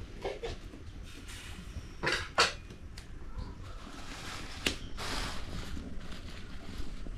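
Scattered knocks and clinks of pots and cooking utensils being handled, with a sharp pair of knocks about two seconds in.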